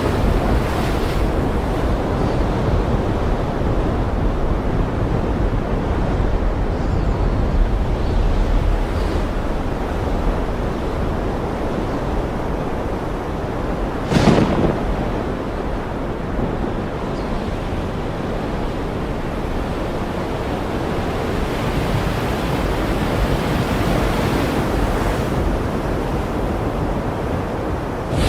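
Ocean surf washing steadily, a continuous rushing noise. About halfway through there is one short, sharp burst.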